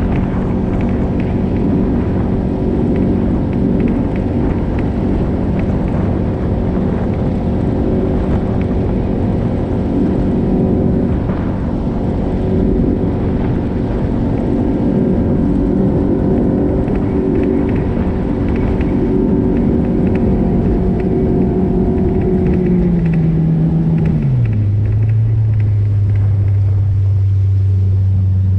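Jet boat's outboard motor running steadily under way, then throttling back in two steps near the end and settling into a lower, steady note.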